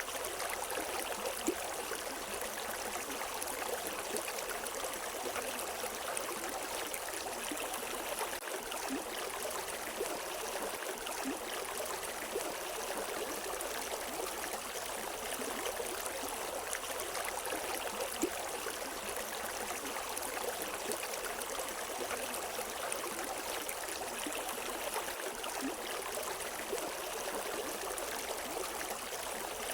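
River water flowing over rocks: a steady, even rush with small splashes now and then.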